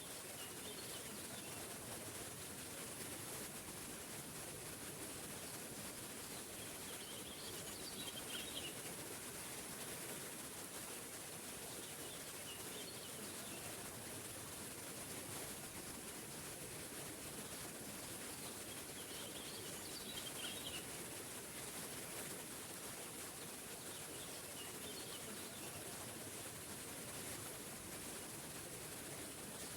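Waterfall rushing steadily, with a bird's short chirping phrase recurring every five seconds or so.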